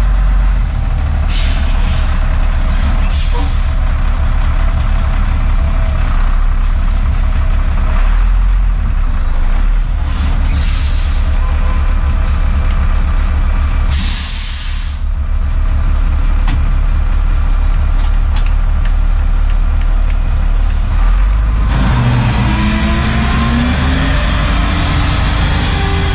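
UD truck's diesel engine running at idle with a steady low rumble, broken by several short hisses of air. Near the end a louder, noisier running sound with shifting tones takes over.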